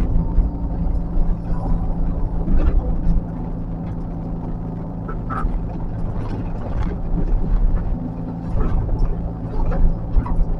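The diesel engine of a heavy earthmoving machine running steadily, with irregular knocks from the machine at work.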